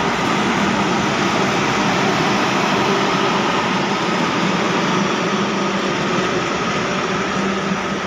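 A passenger train passing behind a diesel-electric locomotive: the steady drone of the locomotive's engine mixed with the rolling of the coaches' wheels on the rails.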